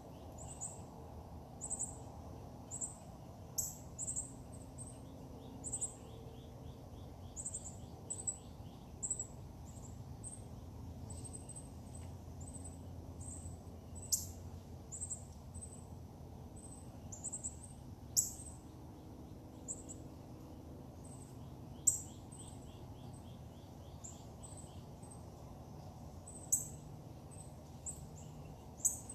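Songbirds chirping: short, high chirps repeated every second or so, with a couple of quick trills, over a steady low background rumble.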